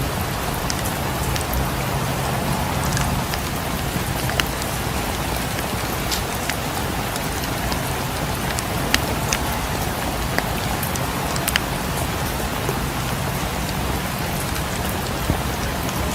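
Steady rain with scattered sharp pops and crackles from a wood fire in a fireplace.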